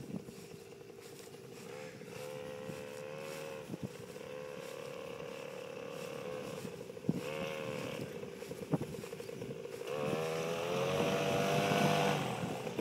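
Raket two-stroke paramotor engine running and being throttled up and back down several times: briefly about two seconds in, again around seven seconds, and longest from about ten seconds to near the end. A few sharp knocks come in between.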